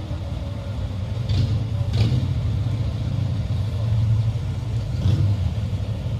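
Car engines rumbling low and steady as cars cruise by slowly, swelling a little about two seconds in and again near the end. A few short sharp sounds stand out over the rumble.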